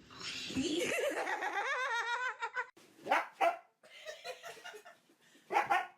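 A dog calling out in a long howl whose pitch wavers up and down, then giving a few short barks.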